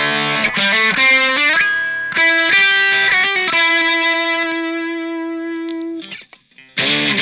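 Electric guitar played through a Fender Santa Ana Overdrive pedal with a distorted tone. It opens with chords, moves to a short single-note phrase that ends on one long sustained note, which cuts off about six seconds in, and chords start again near the end.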